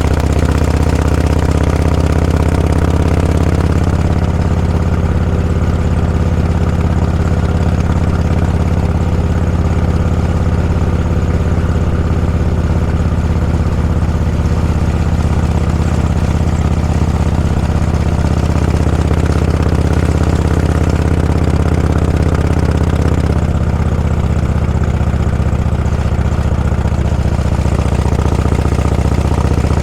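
Vehicle engine running steadily at low revs, a loud even drone with little change in pitch.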